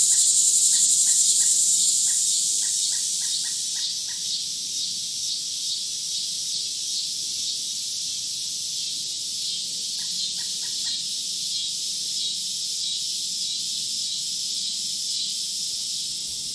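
A dense, steady, high-pitched chorus of insects in woodland, with runs of short, quick chirps in the first few seconds and again about ten seconds in. The chorus drops in loudness a little after two seconds, then holds.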